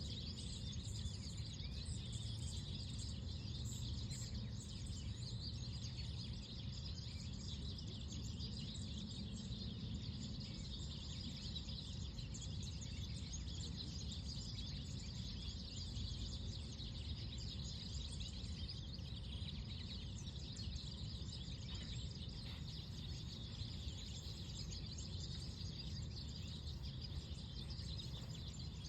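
Many small birds chirping continuously, a dense high twittering, over a steady low background rumble.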